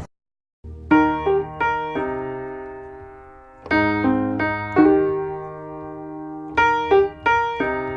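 Solo piano playing a slow, repeating pattern of struck chords that ring and fade, after a brief silence. This is the piano intro of a hip-hop track, before the rap vocals come in.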